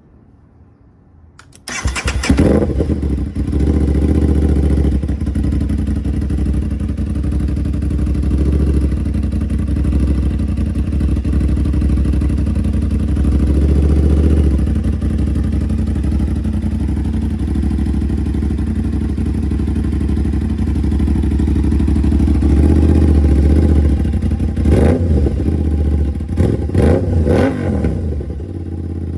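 Aprilia RS660's parallel-twin engine through an SC-Project CRT full-system exhaust: it starts about two seconds in, then idles steadily with a few gentle swells. Near the end come several sharp throttle blips, each falling back to idle.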